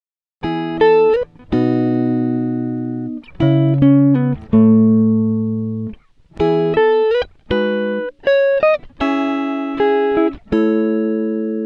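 Background music: an electric guitar playing a riff of plucked notes and held chords, some notes bent up in pitch, starting about half a second in after silence.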